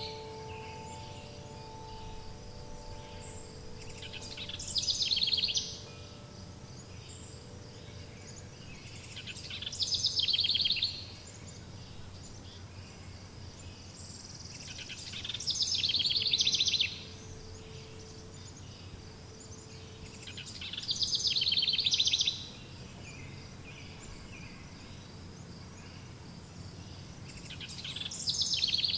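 A songbird repeating a fast trilled song about five times, each phrase swelling in loudness and then cutting off sharply, over a steady background hiss of insects and environment. Wind chime tones ring out and fade in the first few seconds, with a faint one about halfway through.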